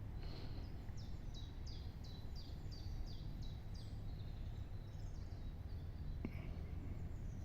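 A small songbird sings a run of about a dozen quick falling high notes, roughly three a second, then a few scattered notes later on, over a steady low rumble.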